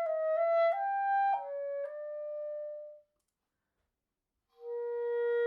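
Solo woodwind melody: a short phrase of separate held notes stepping up and then down, ending on a longer note that cuts off about three seconds in. After about a second and a half of silence, a new phrase begins on a long held note near the end.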